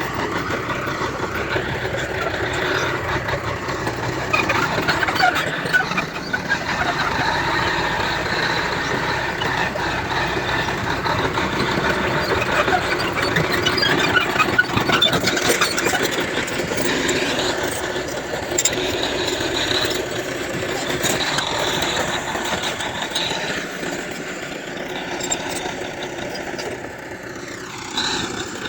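Bulldozer working: its diesel engine running under load with metallic squealing from the moving machinery.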